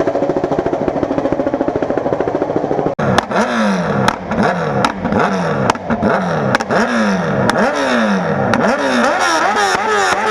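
Motorcycle engine running steadily for a few seconds, then, after an abrupt break about three seconds in, revved in sharp throttle blips about once a second, each rising fast and falling away. Near the end the revs bounce rapidly at the top, as when the engine hits its rev limiter.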